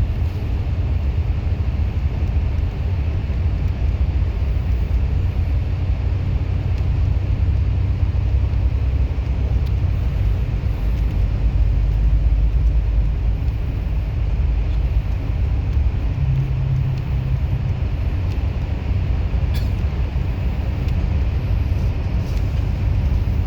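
A bus under way: a steady low engine and road rumble. A deeper engine hum stands out for a couple of seconds about two-thirds of the way through.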